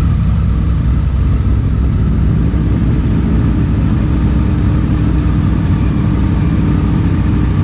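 Triumph Sprint ST's three-cylinder engine running steadily at low revs as the bike rolls at walking pace, heard close up from the bike itself.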